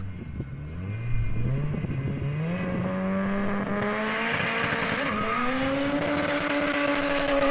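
Combustion car engine revving hard at a drag-race start: its pitch climbs steadily from about a second in, steps up once more midway, then holds high.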